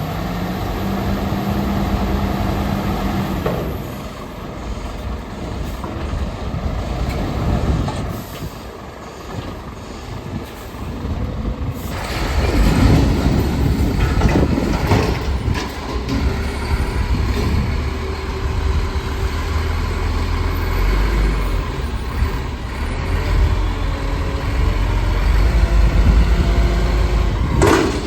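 Garbage truck's diesel engine running, growing louder about twelve seconds in, with hissing and mechanical noise from the truck at work.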